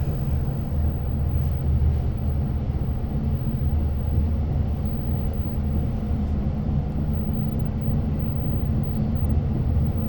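Long Island Rail Road diesel-hauled passenger train running at speed, heard inside the coach: a steady, even low rumble of the engine and wheels on the rails.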